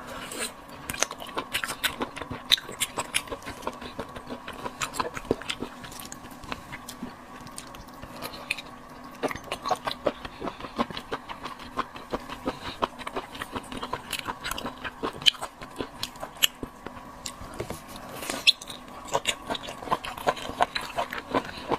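Close-miked chewing of small octopus: a steady run of wet mouth clicks and smacks, over a faint steady hum.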